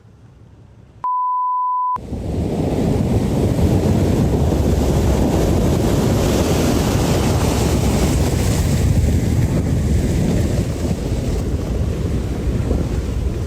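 A censor bleep lasting about a second, then a loud, steady rushing noise of rough water with wind on the microphone.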